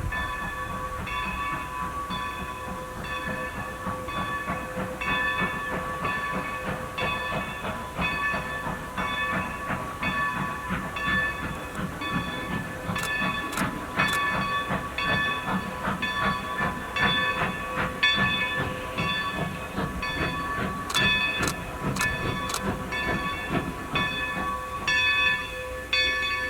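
Steam locomotive with its bell ringing over and over at a steady beat, over the hiss and low rumble of the moving engine. Sharp clicks come in now and then in the second half.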